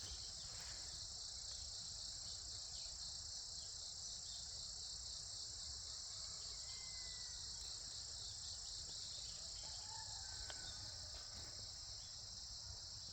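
A steady, unbroken chorus of crickets, a continuous high trill, with a low rumble beneath it.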